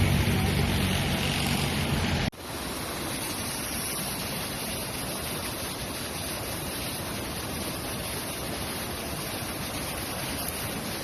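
A boat engine running for about the first two seconds, then an abrupt cut to a steady rush of surf and wind.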